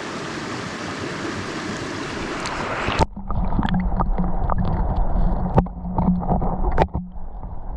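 Mountain stream water rushing as an even hiss. About three seconds in, it cuts abruptly to a muffled sound with a steady low hum and scattered clicks and knocks.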